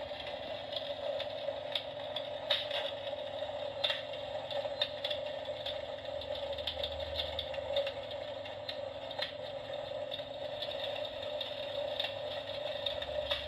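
RealFlame Fobos electric fireplace running: a steady mid-pitched hum with irregular small clicks and crackles over it.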